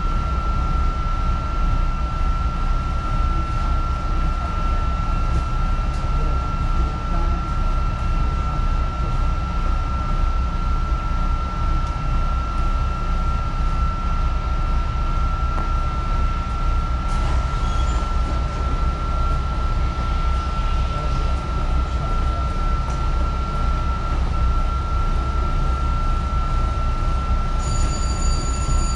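Heard from inside a Long Island Rail Road electric passenger car: a steady low rumble and a constant high whine, as the train runs and then stands at a station platform. Near the end, several new high steady tones come in.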